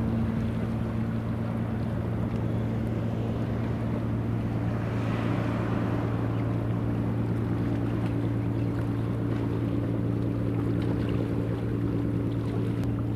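A ship's engine running with a steady low hum, over a haze of wind and water noise.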